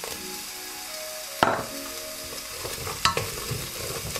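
Onion-garlic masala sizzling in hot oil in a stainless steel pressure cooker as chopped fresh turmeric is tipped in and stirred with a wooden spoon. Two sharp knocks stand out, the louder about a second and a half in and another about three seconds in.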